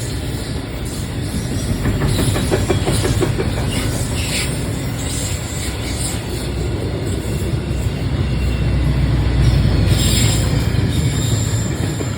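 Intermodal freight train's wagons rolling past: a steady low rumble with a run of wheel clicks over rail joints a couple of seconds in, and brief high wheel squeals near the middle and towards the end.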